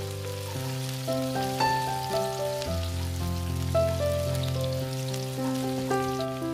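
Sliced shallots and garlic sizzling in hot oil in a pan, an even hiss with small crackles, under background music of slow, held notes.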